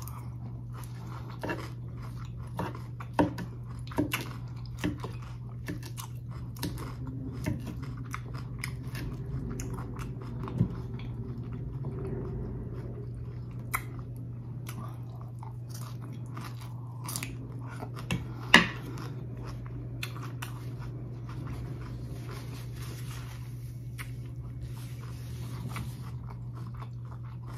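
A person biting and chewing a mouthful of crisp lettuce salad, with a run of crunches that thins out in the last third, the loudest crunch coming about two-thirds of the way through. A steady low hum lies underneath.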